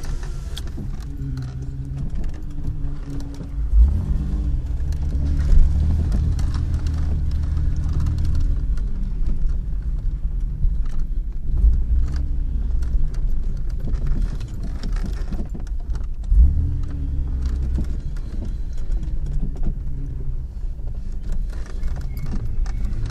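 A 4x4's engine heard from inside the cabin, pulling at low speed over rough off-road ground, its pitch rising and falling with the throttle. Thumps and knocks from the body and suspension come over the bumps, the loudest about 4, 6, 12 and 16 seconds in.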